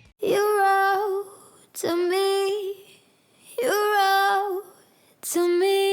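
Background music: a woman's voice singing four short phrases, each ending on a held note, with almost no accompaniment.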